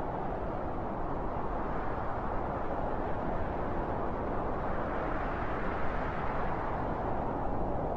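Strong wind blowing as a steady noise, swelling slightly about five seconds in.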